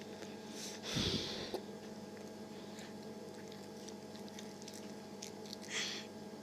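Quiet room tone with a steady electrical hum, broken by a short low thump with a hiss about a second in and another brief hiss near the end.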